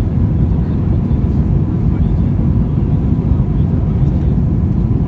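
Steady low roar of an Airbus A320 airliner heard inside the passenger cabin, from its jet engines and the airflow.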